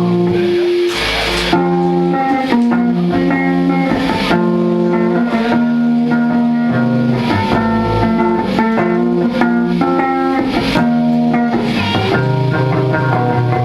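A live rock band playing electric guitar and bass guitar, with held notes that change every second or two.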